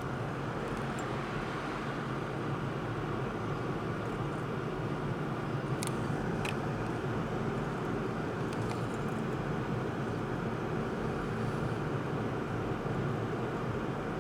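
Steady road and engine noise of a moving car, heard from inside the cabin, with two light clicks about six seconds in.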